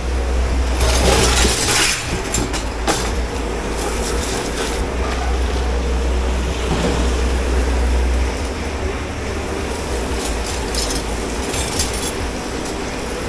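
Dish pit work in a commercial kitchen: a steady low machine hum under irregular bursts of clattering and spraying as dishes are handled and washed.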